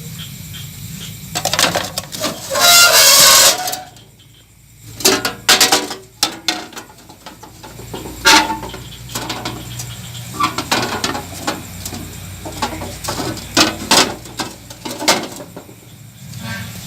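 Hands-on repair work on a refrigerator: a loud hiss for about a second near the start, then a string of clicks, knocks and scrapes of tools on metal, over a steady low hum.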